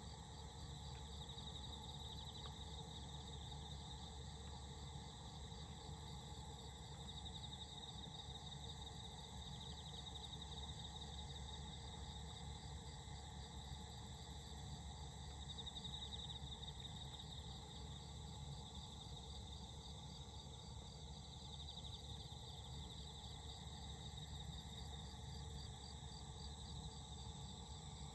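Crickets chirping after rain in a steady, pulsing high trill that swells and fades, over a low steady rumble.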